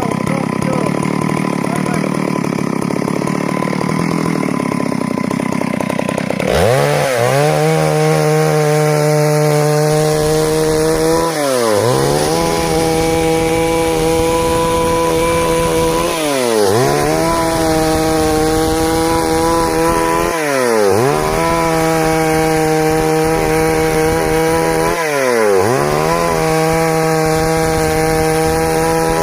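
Stihl MS 382 two-stroke chainsaw running hard while sawing wood into boards. For about six seconds it sounds rough and unsteady. Then it settles into a steady high engine note whose pitch drops sharply and climbs back about every four to five seconds.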